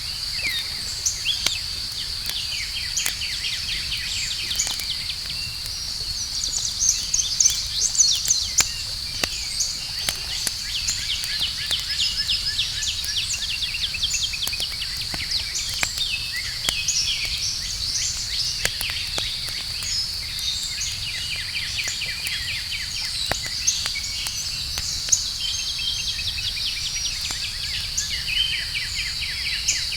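Outdoor campfire crackling with scattered sharp pops and a low rumble, under a steady high-pitched insect drone and frequent chirping.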